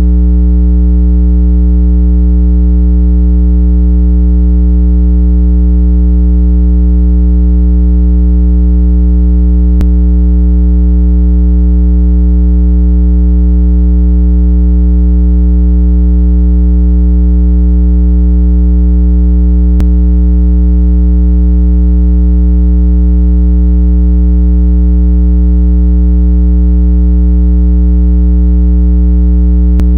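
A steady, loud, low electronic tone from a speaker-cleaning water-eject track, billed as 165 Hz, meant to vibrate earbud and speaker diaphragms so that trapped water is shaken out. The tone does not change in pitch or level, apart from two faint clicks about ten seconds apart.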